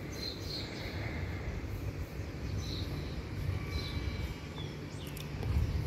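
Birds chirping in a few short, high calls over a steady low rumble, with a brief low bump near the end.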